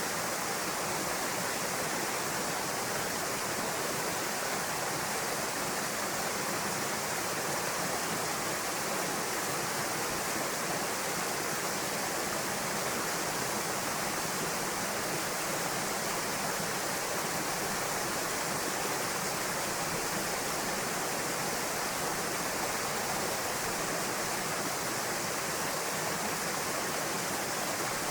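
Waterfall pouring into a plunge pool: a steady, even rush of falling water with no breaks.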